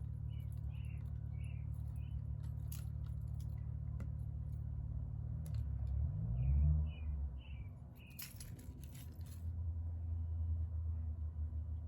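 A low steady rumble that swells briefly about six seconds in, with a bird singing a short phrase of four or five chirps twice, and a few scattered clicks.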